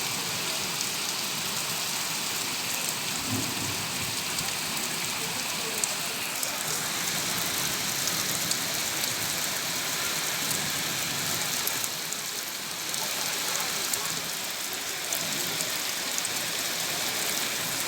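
Heavy rain falling steadily: a dense, even hiss with many small drop ticks, easing slightly for a moment partway through.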